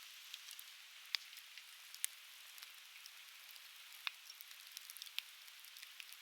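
Burning conifer firewood crackling, with scattered sharp pops over a steady hiss. The strongest pops come about a second in, at about two seconds, at about four seconds and just after five seconds.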